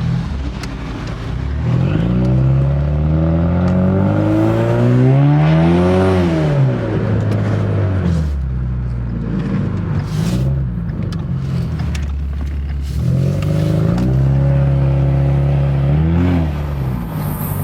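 Car engine accelerating: its pitch climbs for a few seconds and drops at a gear change, holds steady, then climbs and drops again near the end. The engine is running on fresh oil and sounds as it should.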